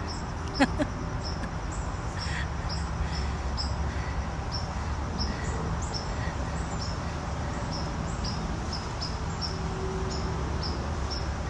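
A small bird repeats a short, high call note, about two to three times a second, over a steady low wind rumble on the microphone. A single brief, sharp sound comes just after the start.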